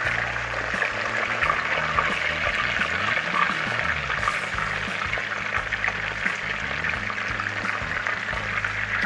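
Chicken pieces frying in a pot of hot oil: a steady sizzle.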